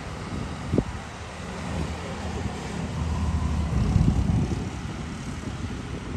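Excavator diesel engine running with a low rumble, working harder for a moment about four seconds in, with a single sharp knock near the start.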